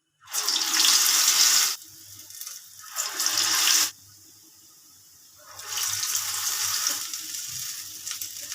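Urad dal vada batter dropped into hot oil for deep frying, three times: each drop sets off a sudden, loud burst of sizzling that settles to a lower hiss.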